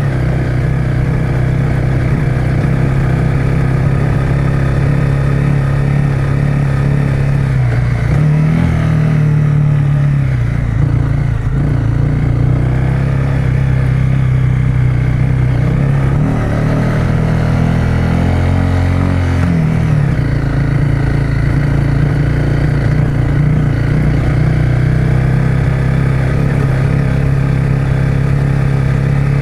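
Honda CRF250 Rally's single-cylinder engine running steadily under way, its pitch rising and falling twice, about a third and two-thirds of the way through.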